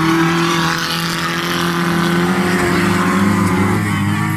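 Racing vehicle engine running hard at high revs, its pitch edging slowly upward.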